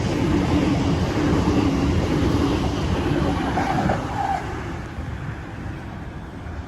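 Sydney Waratah electric train pulling into the platform: a loud rumble of wheels and motors with a brief squeal about four seconds in, then the noise dies down as it slows to a stop.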